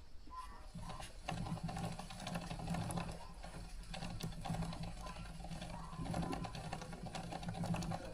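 Motorcycle drive chain running over its sprockets as the rear wheel is spun by hand while gear oil is being worked onto the chain: a steady mechanical whirring rattle full of quick clicks, growing louder about a second in.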